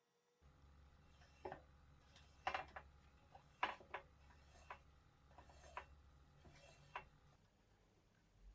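Near silence with a low hum, broken by a scattering of faint, irregular clicks and light taps.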